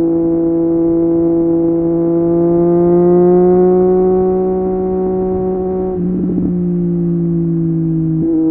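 Triumph Street Triple 765 RS inline-three engine through an Akrapovic exhaust, riding under steady throttle, its note rising slowly. About six seconds in there is a brief rough break, after which the note comes back lower, as at a gear change, and it steps up again near the end.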